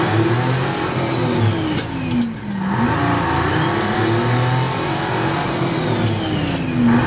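Car engine heard from inside the cabin while driving. Its pitch sinks to a low about two and a half seconds in and climbs again, then sinks once more near the end.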